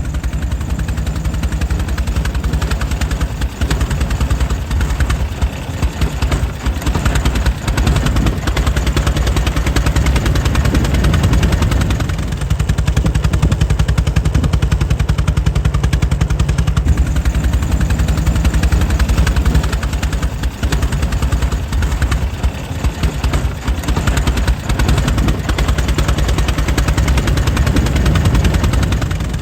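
Air-cooled 1904 Mitchell engine running steadily, a rapid, even train of firing pulses.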